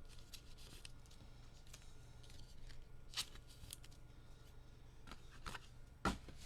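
Trading cards being handled and flipped through by hand: faint scattered clicks and rustles, with a sharper tap about six seconds in.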